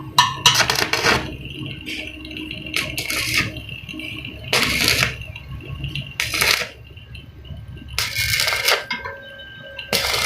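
Irregular bursts of metallic clatter and scraping, about six in all, each lasting roughly half a second, from sheet-metal work on a truck body.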